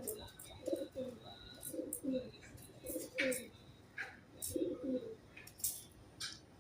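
Pigeons cooing, a low cooing phrase repeated about five times, with short sharp high clicks in between.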